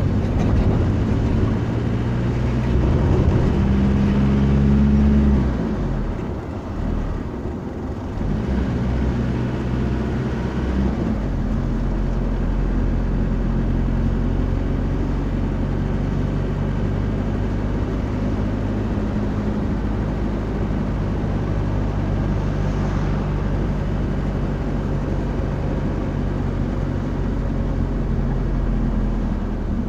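A motor vehicle running, with a steady low engine hum and road noise. The engine note eases about five seconds in, then holds steady.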